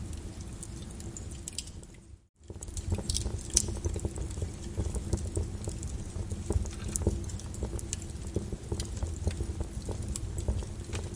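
Flowing lava crackling and popping over a steady low rumble. The sound briefly fades out and back in a little over two seconds in.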